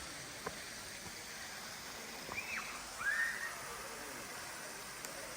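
Steady rushing of falling water from a waterfall. About halfway through come two short, high calls that rise and then fall.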